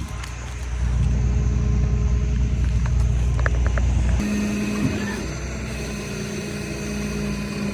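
Motor vehicle running, a steady low rumble that changes abruptly to a different steady hum about four seconds in.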